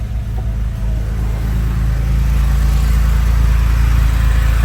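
2008 Porsche 911 (997.1) flat-six engine idling shortly after a cold start, a steady rumble that gets a little louder about two seconds in and then holds.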